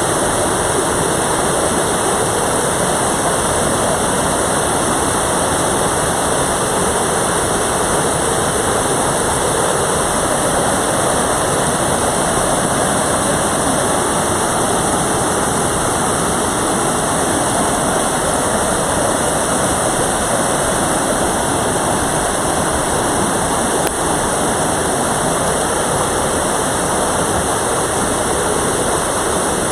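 Water rushing steadily in a mountain valley stream.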